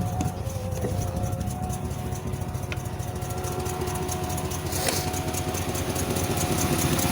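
Carbureted 5.7-litre Vortec V8 in a 1984 GMC Wrangler pickup idling roughly after a cold start, chugging and running rich because its Edelbrock carburettor has no working choke. It gets a little louder near the end.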